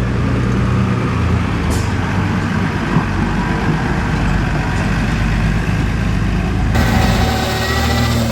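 Tractor engine running steadily while mowing grass. The sound changes abruptly about seven seconds in, brighter and with a different set of tones.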